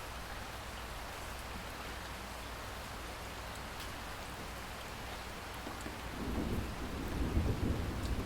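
Steady rain falling, and about six seconds in a low rumble of thunder builds up under it and continues.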